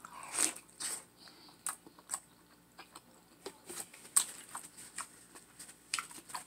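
Close-miked eating sounds of a person biting into and chewing turkey leg meat: irregular wet mouth smacks and clicks, loudest about half a second in and again about four seconds in.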